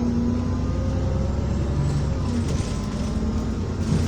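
Alexander Dennis Enviro400 double-decker bus running, heard from inside the passenger saloon, with steady droning and whining tones over the road and engine noise. A short hiss starts near the end.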